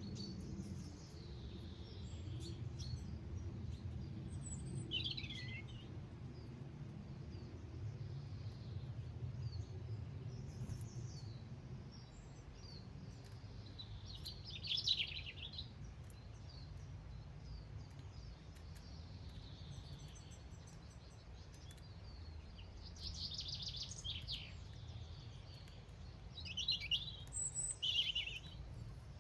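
Small garden songbirds chirping and calling in short, scattered bursts, the loudest about halfway through and a cluster near the end, over a steady low outdoor rumble.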